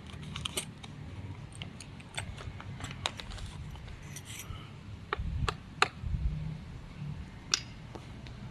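Scattered light clicks and small clatters of hand tools and plastic parts being handled as a Kärcher CV 38/2 upright vacuum cleaner is opened up for repair, over a steady low hum.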